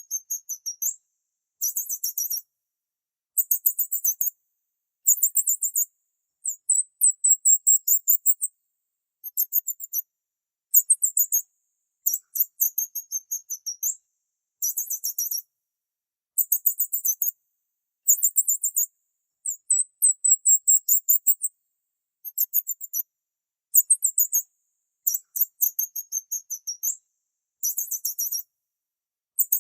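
High-pitched bird chirping: rapid trills of quickly repeated notes, each phrase about a second long, coming again and again with short pauses between.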